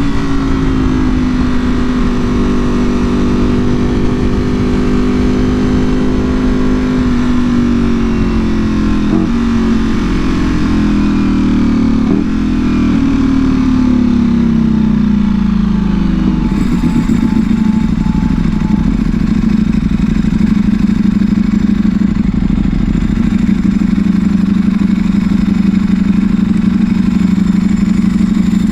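Ducati Panigale V4R's V4 engine through an Akrapovic full exhaust while riding. It holds steady revs, then the pitch falls away over several seconds as the bike slows, with a couple of short blips along the way. About halfway through it settles into a steady, lower, rougher note.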